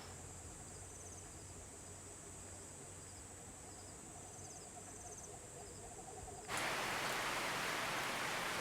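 Insects calling: a steady high buzz with short pulsed trills repeating every second or so. About six and a half seconds in, the sound cuts suddenly to a much louder, steady rushing noise.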